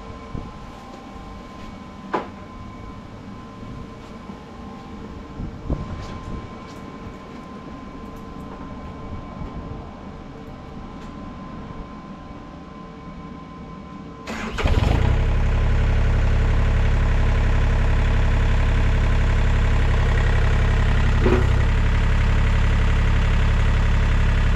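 A few light metal knocks and clicks, then an engine starts abruptly about two-thirds of the way in and runs at a steady idle before dying away at the end.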